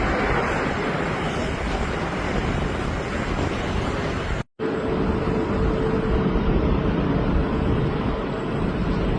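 Steady roar of airliner jet engines. About halfway through it drops out for a split second at an edit, then resumes with a steady mid-pitched whine alongside the roar.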